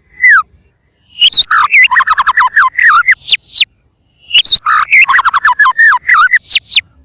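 White-rumped shama (murai batu) singing loud phrases of rapid, falling whistled notes mixed with higher chattering notes. One short note comes at the start, then two long song bursts follow, separated by a pause of about half a second in the middle.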